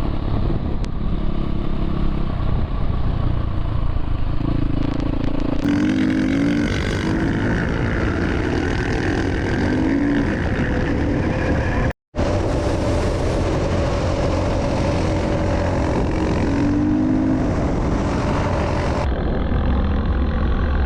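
Dirt bike engine running while riding, its pitch rising several times as it revs up. The sound drops out for an instant about twelve seconds in.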